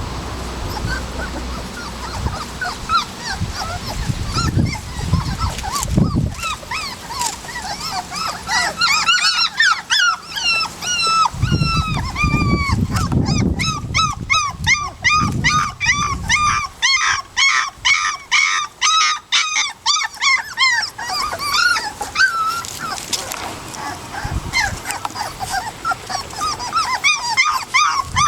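Young puppies, about three and a half weeks old, whining and crying with many short high-pitched yelps, coming thickest and fastest through the middle. Wind buffets the microphone now and then.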